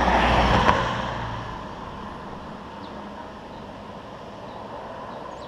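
A road vehicle passing close by, its engine and tyre noise loud at first and fading away within the first two seconds. A quieter steady road background follows.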